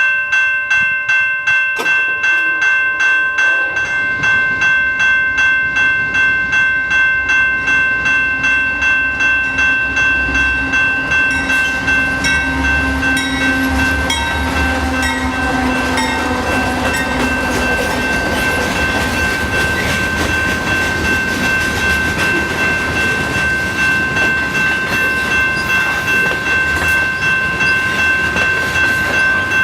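A bell ringing in even, rapid strokes, about two a second, alongside a train; from about eleven seconds in, the rumble and wheel noise of the train passing swell up and keep going under the bell.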